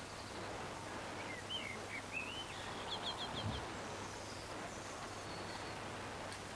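A bird singing a short phrase: a few rising chirps, then a quick run of five high notes, over steady outdoor background noise.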